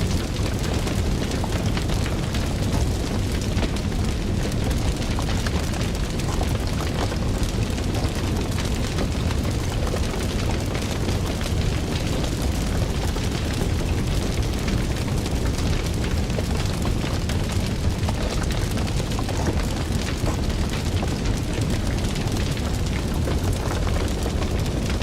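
Wood fire burning: a steady low rumble of flames with frequent small crackles and pops throughout.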